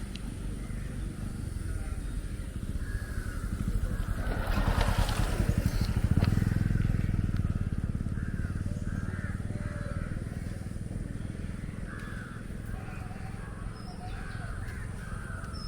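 Motorcycle engine running steadily while riding, getting louder about five seconds in and then easing off. Birds call now and then over it.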